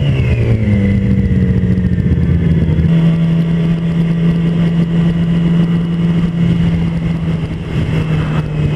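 Yamaha YZF-R6's 600cc inline-four engine through its stock exhaust, under way. The revs drop back over the first second, then hold steady.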